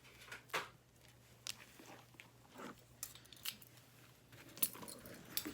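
Hands kneading and squeezing a batch of homemade fluffy slime, giving scattered soft squishing and clicking noises at irregular intervals.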